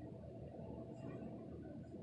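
Hurricane wind heard from indoors: a steady low rumble with a faint steady hum.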